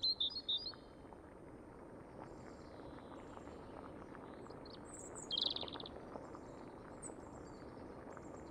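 Small birds chirping outdoors over a steady background hiss. There is a quick run of chirps right at the start and another about five seconds in, with a few thin, high chirps in between.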